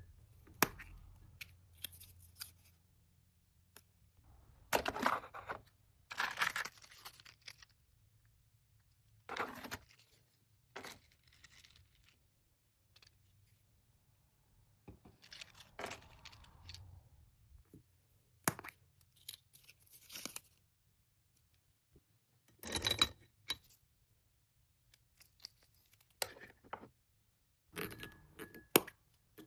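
Paper or plastic packaging being handled: rustling, crinkling and tearing in short, irregular bursts with quiet gaps between them.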